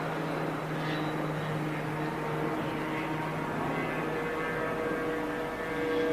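Formula One car engines running, a steady drone with held tones that shift slowly in pitch.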